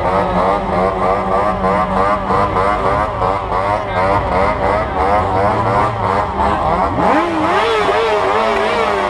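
Motorcycle engines running with a steadily wavering note; about seven seconds in one engine revs up sharply, holds with a wobbling pitch, then falls away near the end.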